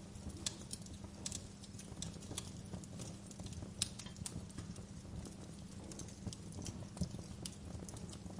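Wood fire crackling in a fireplace: irregular sharp pops and snaps over a low steady rumble of the burning logs, with the loudest pop about four seconds in.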